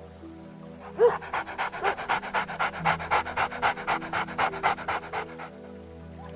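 A single short yelp, then an animal panting rapidly, about six quick breaths a second for some four seconds, over soft background music.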